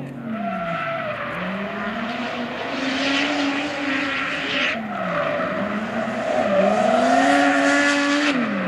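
Drift car's engine revving high and dropping back several times, with tyres screeching in two long stretches while the engine is held high as the car slides.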